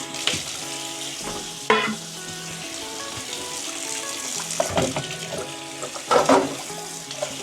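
Dishes being washed by hand in a soapy sink: steady scrubbing and splashing of water, with short clatters of dishes knocking together about two, five and six seconds in.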